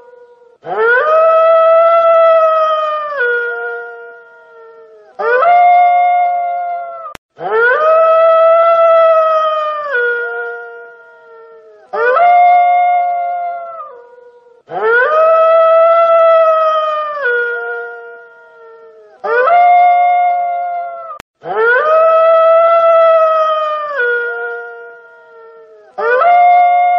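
Wolf howling over and over: about seven long howls a few seconds apart, each holding one pitch and then dropping away at the end.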